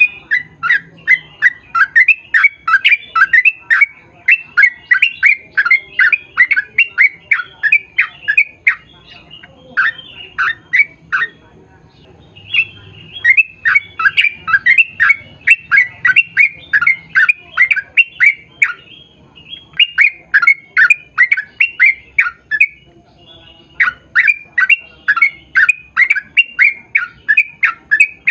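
Yellow-vented bulbul (trucukan) singing long rapid runs of loud, bubbly notes, about four notes a second, in several phrases broken by brief pauses.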